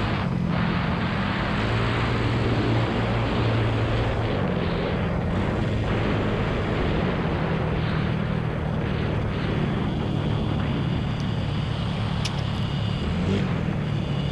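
Yamaha Fino scooter's small single-cylinder engine running steadily at cruising speed, with wind and road noise rushing over the microphone.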